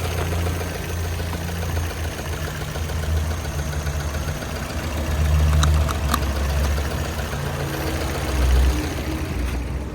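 Opel Astra H's 1.6-litre Z16XEP petrol four-cylinder engine idling, its note wavering slightly, with small swells about halfway through and again near the end.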